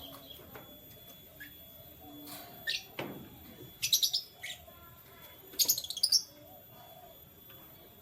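Canaries chirping in short, high bursts, with the loudest clusters of chirps about four and six seconds in.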